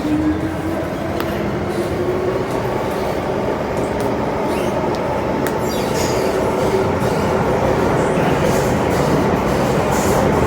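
Metro-Cammell M-Train electric multiple unit running on the MTR Island Line, heard from on board: a steady rumble of wheels on rail with a motor whine that climbs slowly in pitch over the first several seconds as the train picks up speed, then holds roughly steady.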